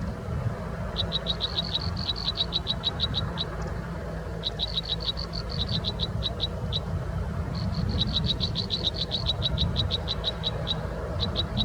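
An animal calling in repeated trains of rapid, high-pitched pulses, about eight or nine a second. Each train lasts one to three seconds, with short pauses between, over a steady low rumble.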